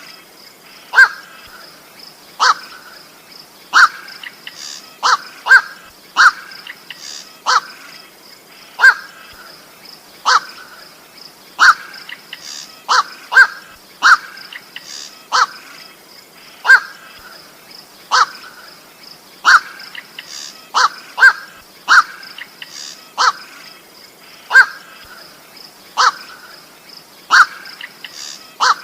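Black-crowned night heron giving short, harsh "kwok" calls at an even pace of about one every second and a half, sometimes two in quick succession, over a steady high hiss. These are the calls that hunters play to lure the birds in.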